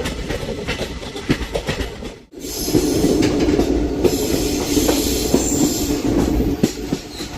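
Moving express passenger train heard from its open doorway: wheels clattering over the rail joints with steady running noise. A brief break comes about two seconds in, then the running noise is louder, with a faint high wheel squeal.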